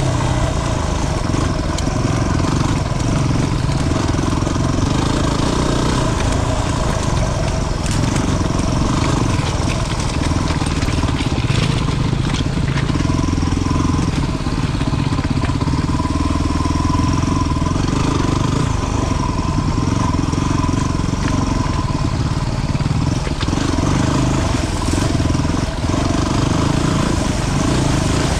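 Single-cylinder 250 cc dual-sport motorcycle engine running under changing throttle while riding a trail, the engine note swelling and easing with no break.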